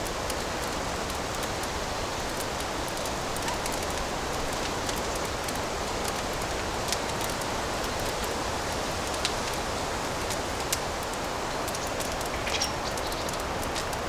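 Fireplace burning: a steady hiss of flames with scattered small crackles and a few sharper pops, the most distinct about seven, nine, eleven and twelve and a half seconds in.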